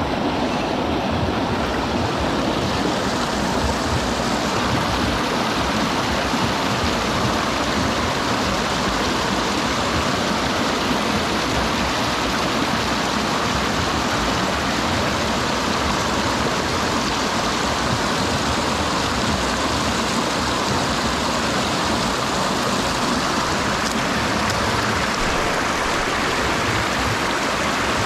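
Mountain stream rushing steadily over rocks, a continuous even hiss of flowing water.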